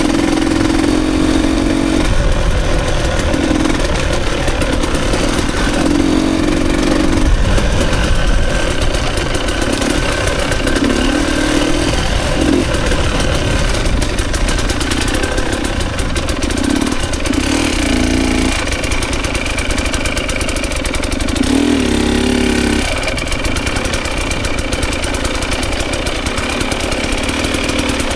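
Dirt bike engine running under way as the bike is ridden over an enduro track, its note shifting up and down with throttle changes.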